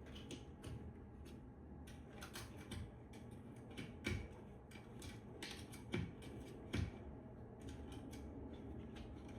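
Small clicks and rustles of hands fitting a Halo retrofit recessed light's clips into the ceiling can light, with a few louder knocks about four, six and seven seconds in.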